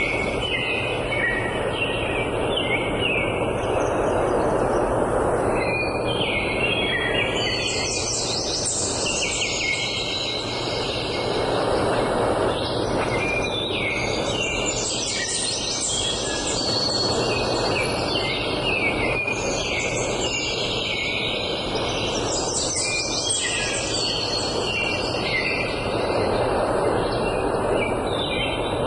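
Several songbirds singing at once in a dense, continuous chorus of chirps and trills, over a steady rushing background noise.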